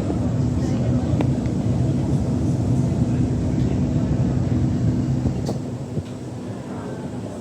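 Transperth C-Series electric train running on rails, heard from on board: a steady rumble with a constant motor hum and a few light clicks from the track. The sound drops noticeably in level about five and a half seconds in.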